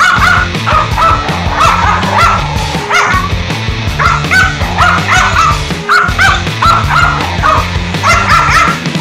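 Dog barking in quick, high-pitched yaps, several a second, over background music.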